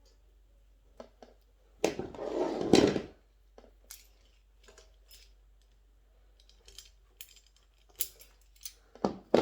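Plastic and rubber chicken-plucker parts being handled and fitted: a rubbing, scraping noise about two seconds in lasting about a second, then scattered light clicks and taps, and a sharper knock near the end.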